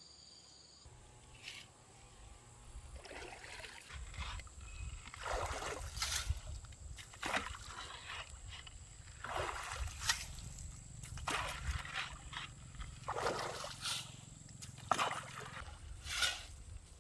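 Shallow stream water splashing and sloshing in repeated strokes, one every second or so, as wet sand is dug out of the streambed.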